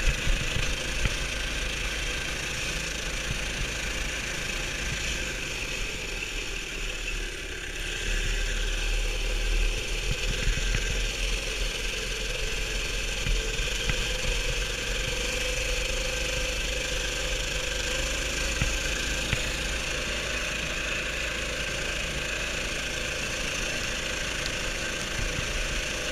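Baja Warrior mini bike with a 290cc engine running steadily, at a fairly even speed.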